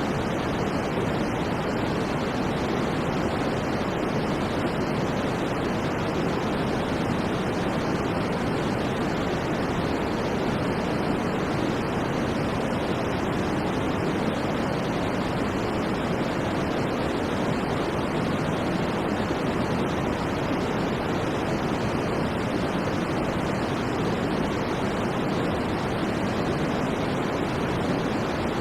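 Steady white noise played as a sleep aid: an even, unchanging rush, fullest in the low and middle range and softer in the highs.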